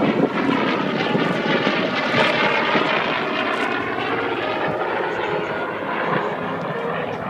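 Radial-engined propeller warbird flying past, its engine drone sweeping in pitch as it passes.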